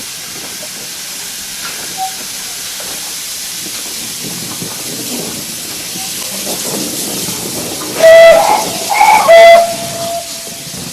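Steam locomotive hissing steadily, then a loud whistle blast about eight seconds in that holds one pitch, briefly shifts higher, returns to the first note and stops about two and a half seconds later.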